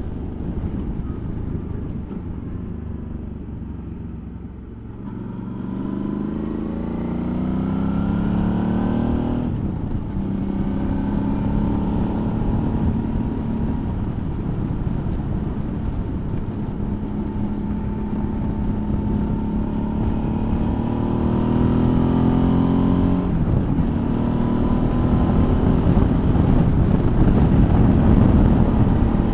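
Suzuki V-Strom's V-twin engine running under a rider, easing off at first and then accelerating, its pitch rising and dropping back at a gear change about a third of the way in and again near the end.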